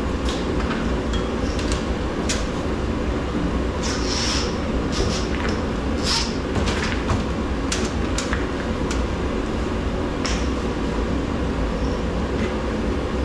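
Scattered sharp metal clicks and taps from hand work on scrap, some ringing briefly, over a steady low rumble.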